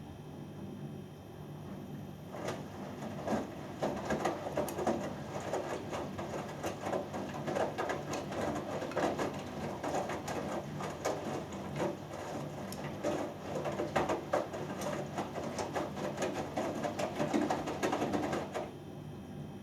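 Hoover Dynamic Next washing machine drum tumbling the wet load in its main wash: water sloshing and clothes flopping inside the turning drum over a low hum. It starts about 2 s in and stops about a second before the end, the usual pause between tumble turns.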